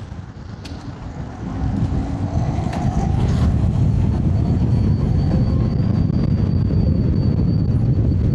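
Wind rushing over the microphone, with road and tyre rumble from an electric scooter being ridden. It builds over the first couple of seconds and then stays steady, with a faint high steady whine from about halfway on.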